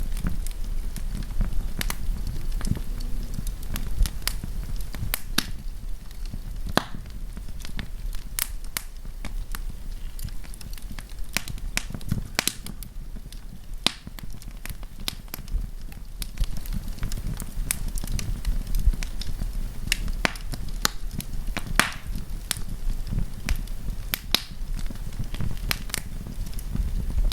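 Wood campfire crackling: irregular sharp snaps and pops over a steady low rumble of the burning fire.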